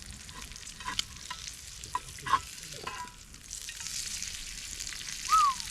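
Food sizzling in a frying pan, with a steady hiss that grows louder after about three and a half seconds. A few utensil clicks and scrapes against the pan come in the first half, and a short high squeak sounds near the end.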